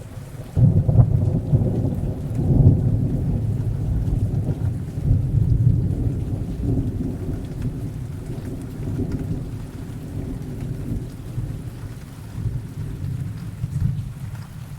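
A thunderclap breaks about half a second in and rolls on as a long, deep rumble over steady rain. The thunder is loudest in the first few seconds, then fades slowly with smaller swells.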